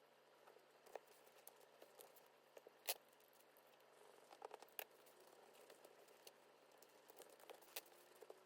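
Faint, scattered light taps and soft crinkling of hands handling a binder and its decorations, with one sharper click about three seconds in.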